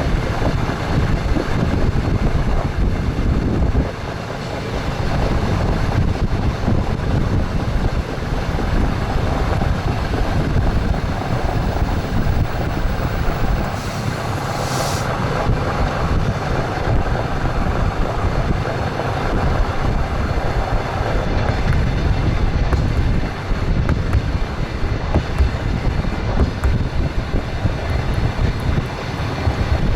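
Moving express train: wheels clattering on the rails over a steady running rumble. About halfway through there is a short hiss.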